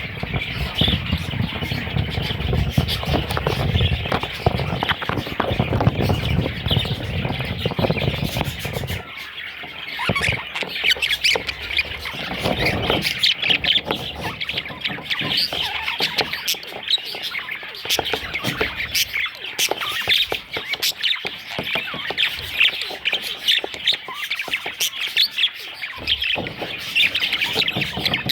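Budgerigars chattering and squawking in a dense, continuous stream of rapid calls. A low rumble sits under the calls for the first third and stops about nine seconds in.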